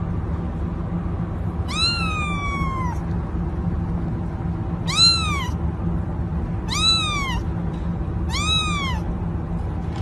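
A cat meowing four times, the first call longer than the rest, each rising then falling in pitch, over a steady low background hum.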